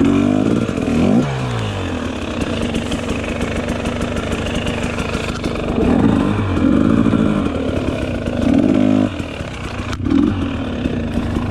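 Dirt bike engine revving up and down as it rides singletrack, its pitch rising and falling with the throttle. The throttle closes sharply about nine seconds in, then comes back on.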